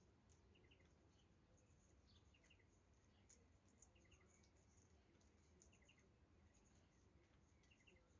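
Near silence, broken by faint short high chirps, usually in pairs or threes, every second or two, over a quieter run of high ticks: small birds calling.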